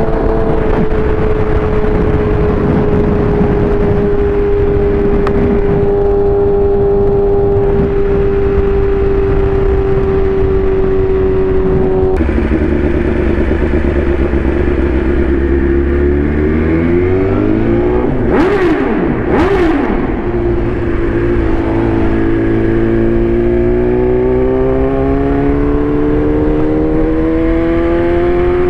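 Inline-four sport motorcycle engine at speed, heard from on the bike with a loud exhaust and wind rush. The engine note eases slowly downward for the first half. About two-thirds in, a second engine note sweeps across it. After that the revs climb steadily as the bike accelerates.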